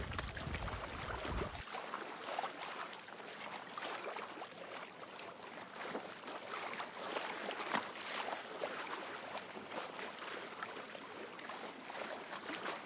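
Water lapping and splashing against a sailboat's hull: many small splashes over a steady hiss. A low wind rumble cuts off about a second and a half in.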